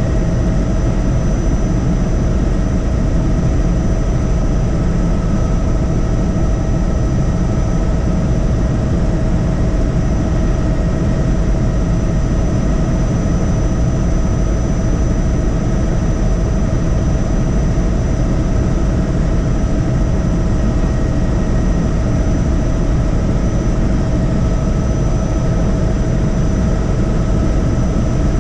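Helicopter cabin noise in flight: a steady, loud drone of rotor and engine with several constant whining tones over it.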